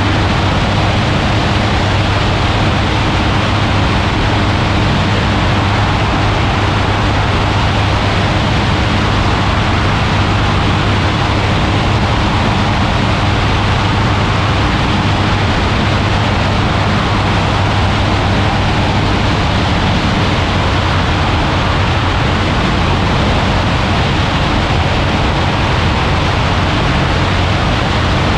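Ultralight aircraft engine running at a steady drone, under a loud, even rush of wind.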